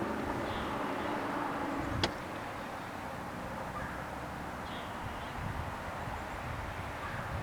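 Outdoor ambience: a steady low rumble and hiss with a few faint high bird calls, and one sharp click about two seconds in.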